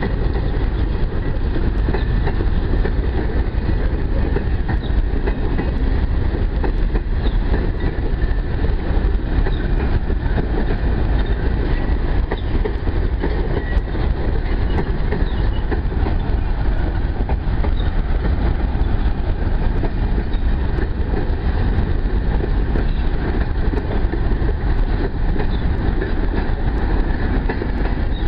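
Empty freight train of boxcars and grain hopper cars rolling past close by: a steady, loud rumble of steel wheels running on the rails.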